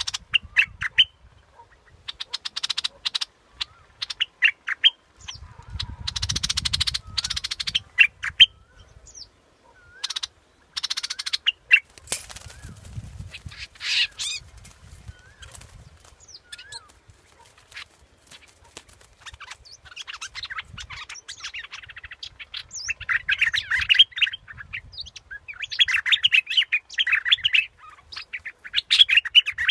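Bulbul ('dok taeng' bird) singing in bursts of quick chattering, warbling phrases, busiest in the last third, with a low rumble about six seconds in and again near the middle.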